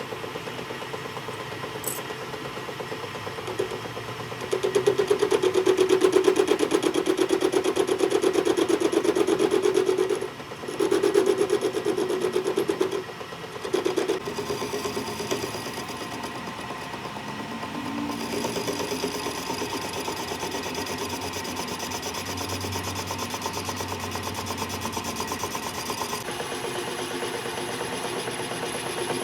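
A machine running with a fast, even mechanical rattle, much louder for stretches from about four to thirteen seconds in, then steadier and quieter.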